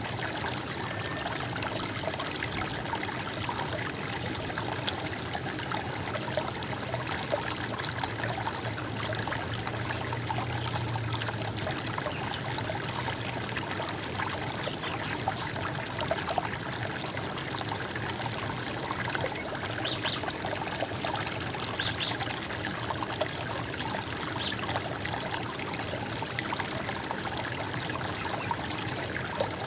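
Steady trickling and gurgling of running water, an even rush with no change throughout.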